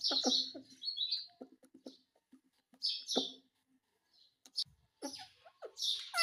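A pet ring-necked parakeet chattering and squawking in several short bursts with pauses between them.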